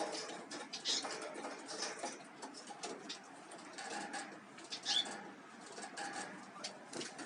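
Small songbirds giving a few short, high, falling chirps, about one a second in and another near five seconds, over a continual light patter of scratching and tapping.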